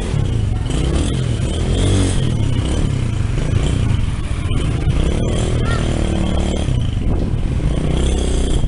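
Small motorbike engine running on a test ride, its pitch rising and falling as the throttle is opened and closed.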